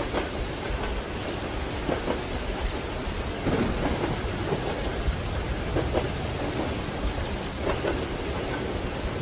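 Steady rain pattering over a low, continuous rumble from a moving train, a little louder for a second or so around the middle.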